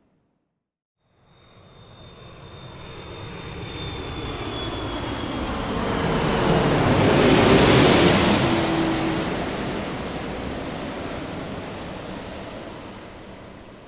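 Jet airplane passing overhead. After a second of silence its noise swells up, peaks about halfway through and fades away. A high whine and a lower hum both slowly drop in pitch as it goes by.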